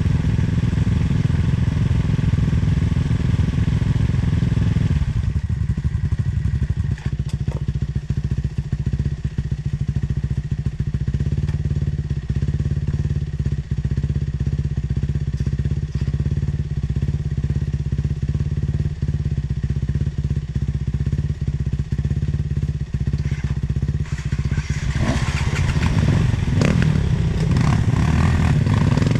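Sherco 300 two-stroke enduro motorcycle engine running while riding a trail, with frequent knocks and clatter from the bike over rough ground. The engine note changes about five seconds in and comes up stronger again near the end, as the throttle opens.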